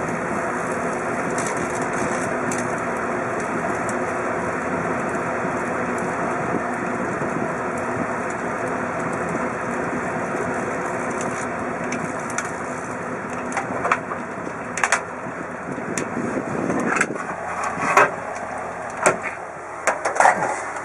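Kenmore microwave oven running with a steady hum. From about two-thirds of the way in, sharp pops and crackles come from the iPhone 4S cooking inside, the loudest near the end.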